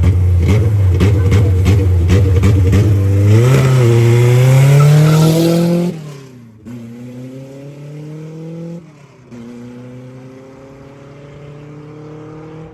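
Cars launching in a drag race: engines held at high revs, then accelerating hard, the pitch climbing through the gears. About six seconds in the sound drops sharply and carries on quieter, rising again after each gear change as the cars pull away.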